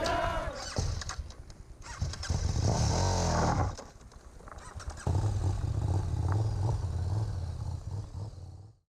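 Motorcycle engines running, one rising and falling in pitch about two to three seconds in, then a steady low engine rumble from about five seconds in.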